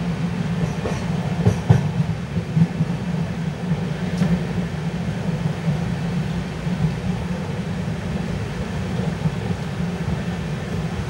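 LHB passenger coach running at speed: a steady low rumble of wheels on rail, with a few sharp clicks in the first two seconds and another about four seconds in.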